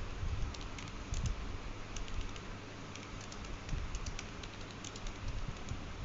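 Quick, irregular light clicks in small clusters, with a few soft low thumps, over steady background noise.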